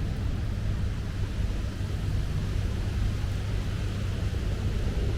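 Steady low background rumble with a faint hiss and no distinct events, such as distant city traffic or wind on the microphone.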